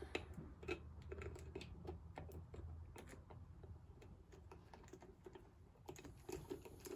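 Faint, irregular light clicks and taps of metal parts being handled as the LS1 engine's valve cover is fitted and checked.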